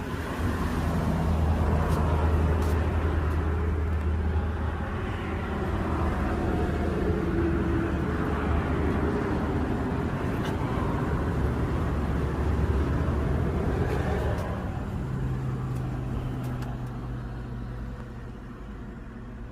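A car running: a steady low engine hum that shifts in pitch about fifteen seconds in and grows quieter near the end.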